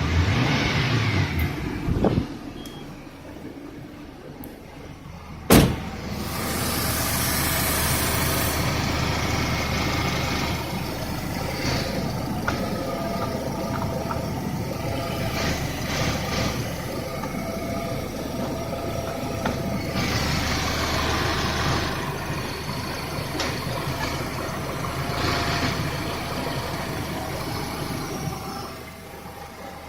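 Citroen Xsara Picasso 1.6i petrol engine (TU5JP4, NFU, 16-valve four-cylinder) running at idle. It settles down after a rev, and a single sharp knock sounds about five and a half seconds in.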